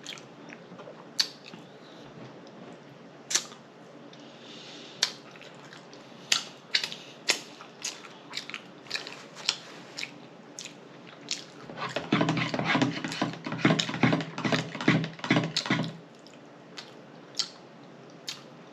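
Close-miked chewing with wet lip smacks and sharp mouth clicks every second or so; from about 12 to 16 s the chewing gets denser and louder, with a low hum mixed in.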